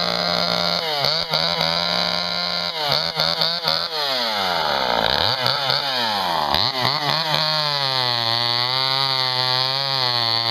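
Vintage two-stroke chainsaw running and being revved: its pitch drops and climbs again several times with the throttle, then it settles into a steady fast run, wavering slightly, about seven seconds in.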